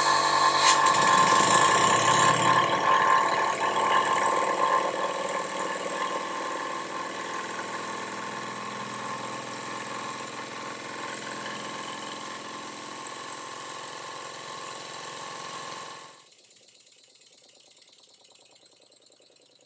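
Stuart Progress model oscillating engine running with a fast mechanical clatter, slowly getting quieter, then cutting off about three-quarters of the way through.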